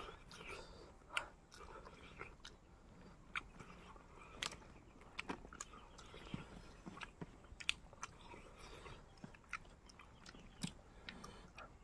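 A person chewing and biting food close to the microphone, in the way of a mukbang, with irregular soft mouth and teeth clicks.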